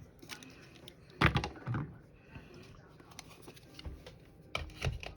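A few knocks and taps with light rustling from handling a paper card on a worktable: one cluster about a second in and another near the end.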